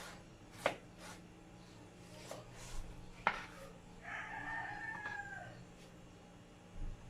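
A few sharp knocks of a knife chopping on a cutting board. About four seconds in, a rooster crows once, a call of nearly two seconds that drops in pitch at the end.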